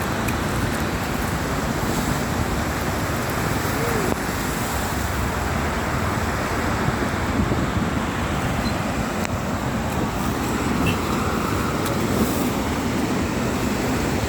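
Steady loud rush of the flooding Thamirabarani River, an even roar of fast water with no break or change.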